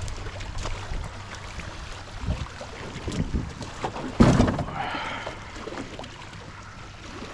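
Handling noises of an aluminium jon boat being settled on its trailer: scattered knocks and clatter with one loud thump about four seconds in, over a low steady hum and wind on the microphone.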